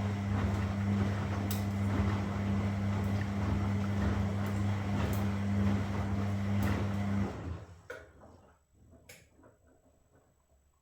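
Washing machine running with a steady low hum and scattered clicks, cutting off abruptly about seven seconds in and dying away over a second or so, followed by a few faint knocks.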